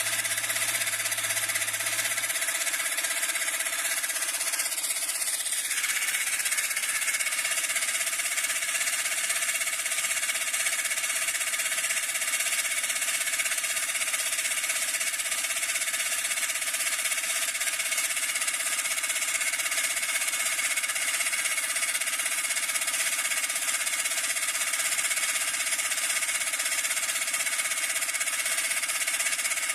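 Homemade car compressor, a refrigerator compressor driven by a car heater-fan motor, running steadily while inflating a car tyre.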